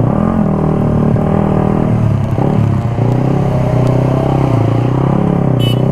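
Suzuki GSX-R150's single-cylinder engine running through a full-system aftermarket exhaust while riding, its pitch rising and falling with the throttle and dipping briefly about two and a half seconds in before climbing again.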